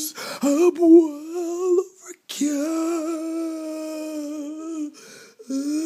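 A woman singing long wordless notes: a few short wavering notes, a break about two seconds in, a long steady held note, then a rising slide near the end.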